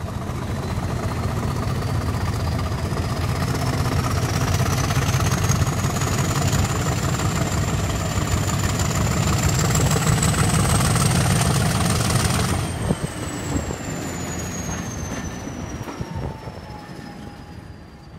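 Train running: a steady rumble under a whine that rises slowly in pitch for about twelve seconds. Then the sound drops suddenly and the whine slides back down as it fades.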